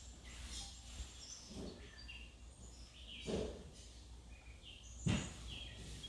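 Birds chirping faintly with short, scattered high calls, over a low steady hum. Two short knocks stand out, about three seconds in and again about five seconds in, the second the loudest sound.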